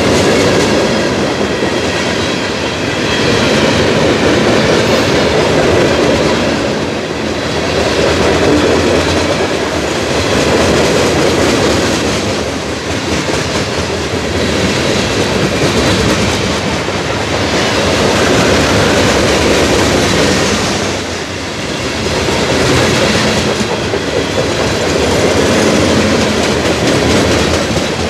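Covered hopper cars of a freight train rolling past at close range: a steady loud rumble and clatter of steel wheels on rail, swelling and easing every few seconds as the cars go by.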